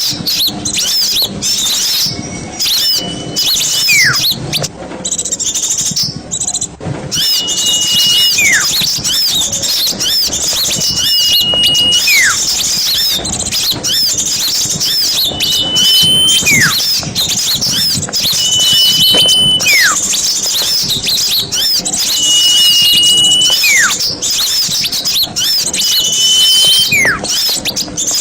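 Small songbirds chattering and chirping densely and high-pitched, over which a clear whistle is held briefly and then followed by a downward-sliding whistle, the pair repeating about every four seconds.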